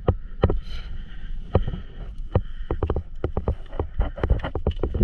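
Dirt bike being ridden over a rough dirt track: irregular knocks and rattles from the bumps, several a second, over the running engine.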